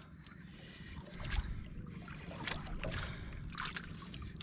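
Water lapping against a small boat's hull, with scattered knocks and clicks at uneven spacing over a low rumble.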